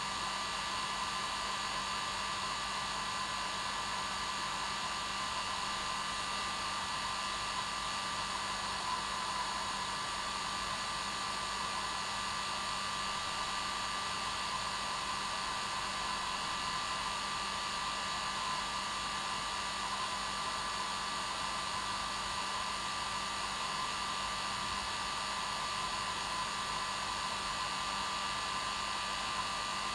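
Hair dryer running steadily: an even hiss of blown air with a steady motor whine.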